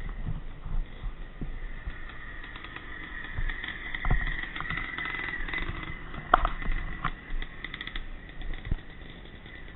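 Vintage pre-65 motocross motorcycles' engines running in the distance, swelling a little mid-way, with a few sharp knocks, the loudest about six seconds in.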